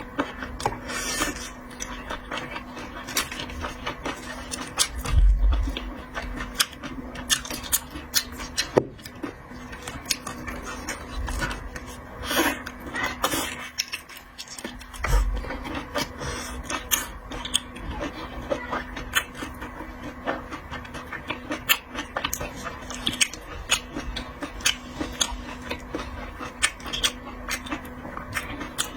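Close-up eating sounds of a seafood platter: many short wet clicks and smacks of chewing, sucking and handling shellfish, over a steady low hum, with a few dull thumps.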